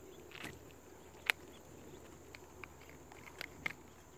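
A handful of sharp clicks and taps over a quiet outdoor background, the loudest about a second in.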